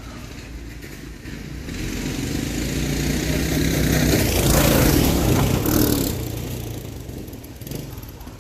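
Small engines of a mini bike and a three-wheeler racing past, growing louder from about two seconds in, loudest around the middle, then fading away.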